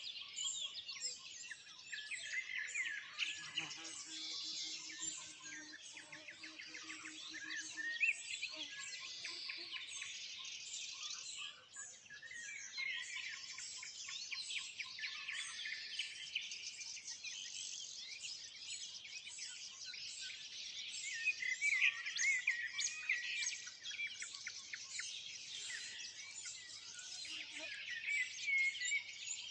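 Morning chorus of many songbirds singing at once, nightingales among them, a dense, continuous tangle of high whistles, trills and chirps. A faint, steady low hum sounds under it for a few seconds near the start.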